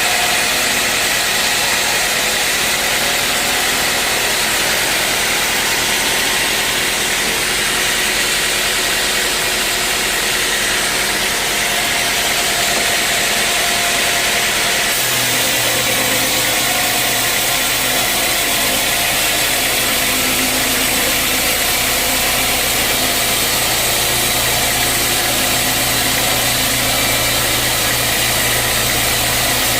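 Sawmill machinery running steadily: a loud, even mechanical noise with a constant hum. A deeper hum comes in suddenly about halfway through.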